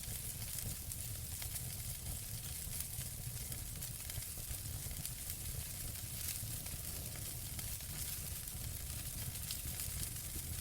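Wood fire burning in a fireplace: a steady hiss with scattered sharp crackles and pops, over a low rumble.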